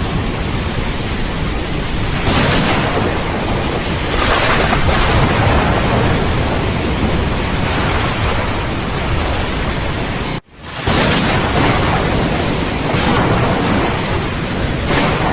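Steady rain with thunder rumbling through it, swelling a couple of times. About ten seconds in the sound cuts out for an instant and comes straight back, like a splice in the recording.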